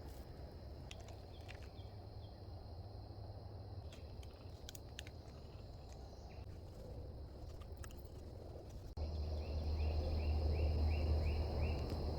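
Outdoor natural ambience: a steady high insect drone with scattered faint clicks over a low rumble. About nine seconds in the sound jumps louder, and a short chirp repeats about three times a second.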